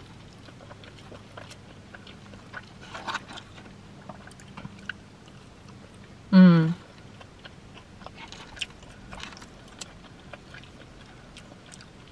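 Close-up chewing and wet mouth clicks from someone eating fries and tater tots, with one loud, short voiced hum about six seconds in.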